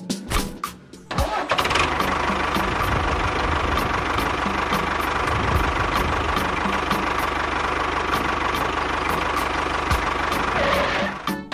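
A few sharp clicks, then an engine catches about a second in and runs steadily, dipping briefly near the end.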